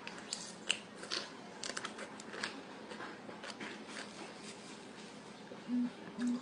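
Faint scattered clicks and wet mouth sounds of a person biting and chewing a lemon wedge, with two short low tones near the end.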